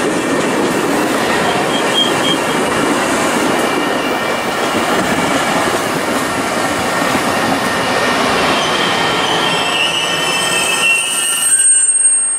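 Metra bi-level gallery commuter cars rolling past at close range: a steady loud rush of steel wheels on rail, with high-pitched wheel squeal that grows stronger in the last few seconds.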